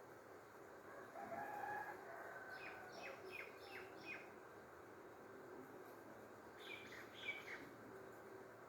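Faint bird calls: a drawn-out call about a second in, then a quick run of five falling chirps, and a few more chirps near the end.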